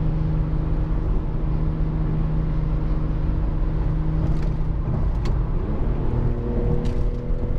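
Infiniti G37's VQ V6 sounding through a custom Speed Culture Studios exhaust with long resonators, holding a steady deep tone in 4th gear. About five to six seconds in, the note drops lower and changes as the revs come down.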